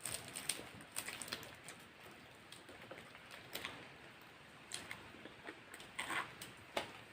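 Close-miked eating sounds: irregular wet clicks, smacks and small crackles of someone chewing food.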